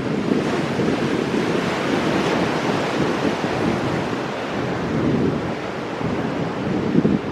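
Pacific surf breaking on shoreline rocks: a continuous wash of water with a brief surge near the end.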